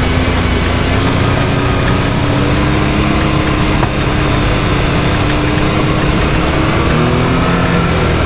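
Can-Am Maverick X3 side-by-side's turbocharged three-cylinder engine running at steady part throttle, its pitch creeping up for several seconds and dipping about seven seconds in, over the rumble and rattle of the machine moving along the trail.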